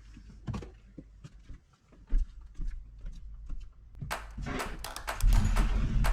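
Plastic tubs of ice being shifted and set into a cooler: irregular knocks, clunks and rustles, with a sharp thump about two seconds in and heavier, busier clunking and thudding from about four seconds on.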